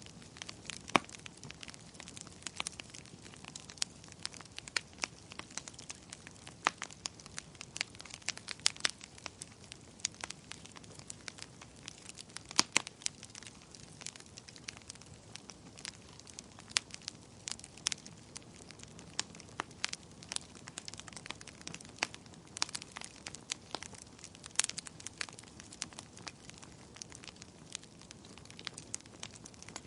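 Wood campfire burning, crackling and popping irregularly over a soft hiss, with sharper pops every second or two.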